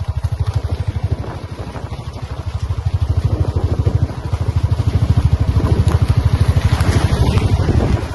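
A motor vehicle's engine running under way, with a rapid, even low pulse that gets louder from about halfway through.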